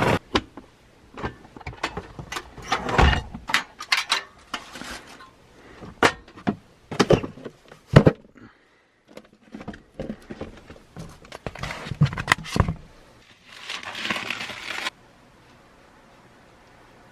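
Handling noise: irregular knocks, clicks and rustles as a camera is picked up and put away. It ends in a short burst of rustling that cuts off suddenly, leaving a faint hiss.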